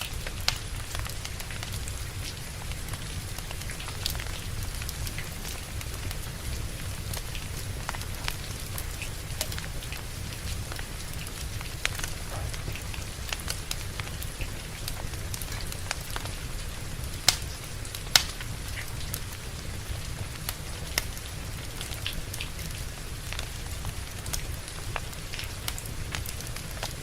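Steady rain with a wood fire crackling, scattered sharp pops over a low rumble; two louder pops come close together about two-thirds of the way through.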